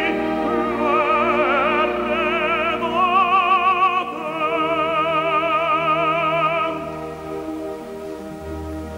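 Operatic tenor singing long held notes with a wide vibrato, backed by an orchestra. The voice stops about two-thirds of the way through, and the orchestra carries on more softly.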